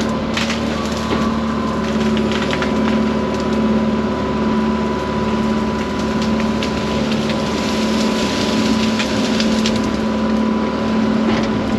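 Excavator's diesel engine running steadily under load with a thin hydraulic whine, and scattered sharp cracks and knocks as brush and stumps are worked.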